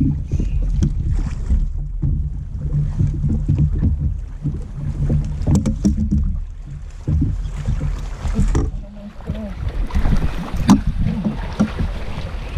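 Wind buffeting the microphone over a steady low hum, with irregular knocks and clicks of gear being handled and one sharp knock near the end.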